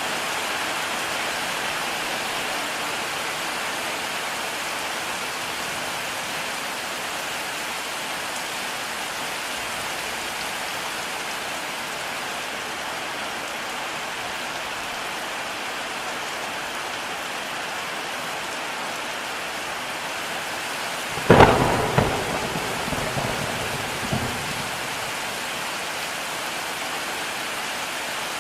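Heavy rain falling steadily, with a sharp thunderclap about three quarters of the way through followed by a few seconds of rumbling.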